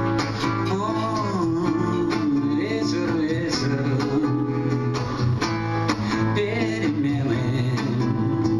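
Acoustic guitar strummed steadily as song accompaniment, in an instrumental passage between sung lines.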